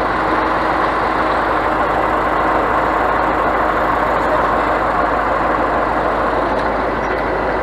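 Scania truck's diesel engine running steadily, with no change in speed.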